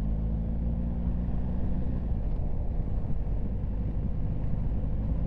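BMW R1250 GS boxer-twin motorcycle engine running while riding in traffic, a steady low drone that turns rougher about two seconds in.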